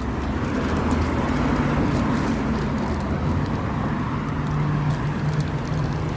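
Motor vehicle engine running close by: a steady low hum with road noise.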